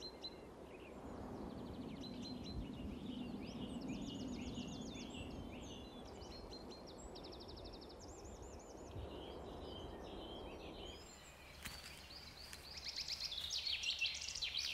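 Woodland birdsong: several small birds chirping and trilling over a low, steady rumble. About eleven seconds in, the rumble drops away, a few sharp clicks follow, and the birdsong grows louder near the end.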